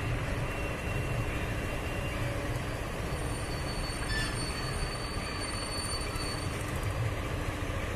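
Slow-moving goods train of flat wagons rolling along the track with a steady rumble. A thin high wheel squeal comes in about three seconds in and fades out after six seconds.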